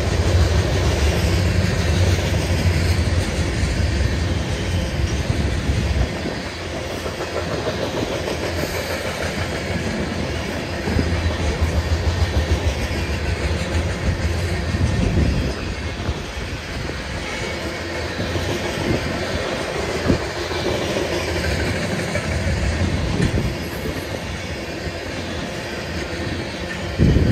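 Freight train of covered hopper cars rolling past at close range, a steady noise of steel wheels running on the rails.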